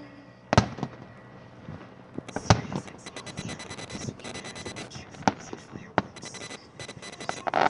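Aerial fireworks shells bursting: several sharp booms, the loudest about half a second and two and a half seconds in, with rapid crackling pops from about two to four and a half seconds in and again near the end.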